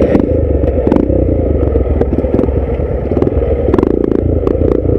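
Dirt bike engine running at low speed with uneven throttle as the bike crawls over rocks, with scattered knocks and clatter from the bike and stones.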